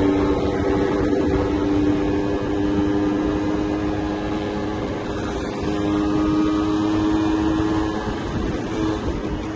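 Yamaha 125ZR's single-cylinder two-stroke engine running at steady cruising revs while being ridden, over a steady rush of wind and road noise. The engine note eases off briefly around the middle, then comes back.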